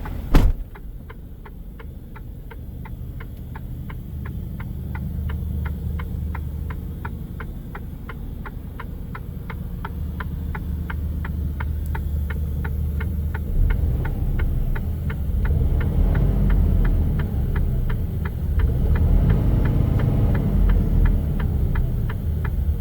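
Mercedes-Benz Actros truck's diesel engine idling with a low steady hum that grows louder in the second half, while the indicator or hazard-light relay clicks evenly a few times a second. A single sharp thump comes just after the start.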